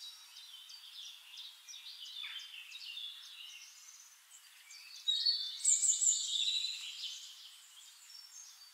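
Small birds chirping and twittering, with a louder flurry of calls about five seconds in.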